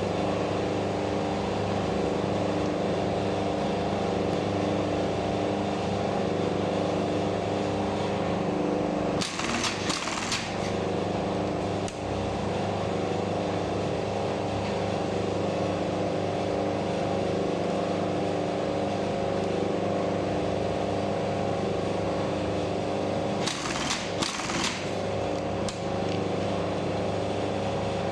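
Brother 917-B industrial button-sewing machine: its motor hums steadily, and twice, about nine seconds in and again near the end, the machine runs a brief stitching cycle of a second or so.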